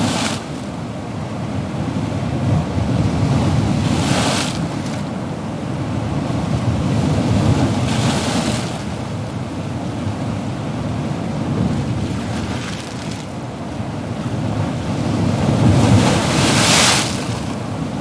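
Ocean waves breaking on a shore: a continuous low rumble of surf with hissing washes that swell every few seconds, the strongest near the end.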